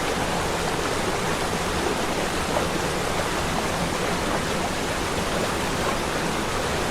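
A waterfall rushing steadily: a constant, even roar of falling water.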